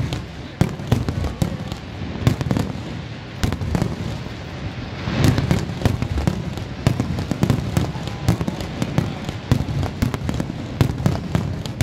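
Aerial fireworks shells bursting one after another, with sharp bangs and crackling pops that come thicker in the last few seconds.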